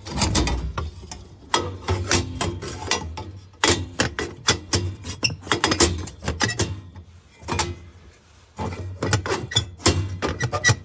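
Clattering clicks and knocks in several bursts with short pauses between them, like tools or metal parts being handled.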